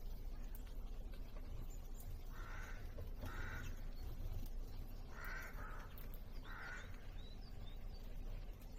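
A crow cawing four times, harsh calls a second or two apart, over a low steady background rumble, with a few faint high bird calls.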